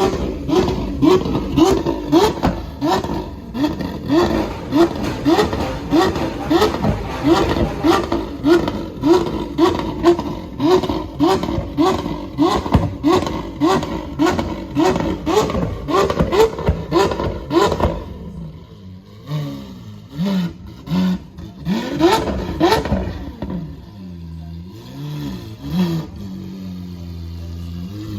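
Lamborghini Aventador V12 engines revved in quick throttle blips, about two a second, each a short rising rev. After about 18 seconds the revving becomes sparse: the engines settle to a lower, steadier note with a few single revs.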